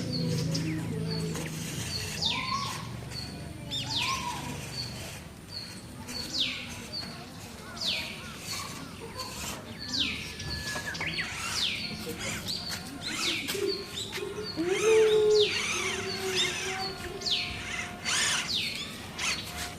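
Birds chirping outdoors: many short, quick down-slurred chirps, repeated again and again with different birds overlapping.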